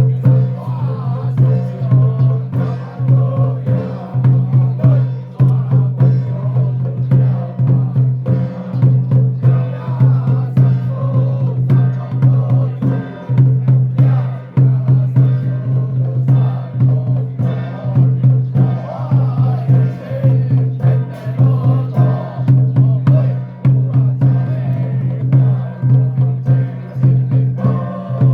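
Ritual chanting by a xiaofa troupe in unison over a steady beat of drum and wood-block-like percussion, pulsing about once a second.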